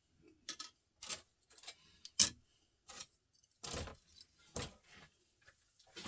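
Light clicks and clinks of small salvaged laptop parts being handled and dropped onto sorting piles, about nine separate knocks with the sharpest about two seconds in.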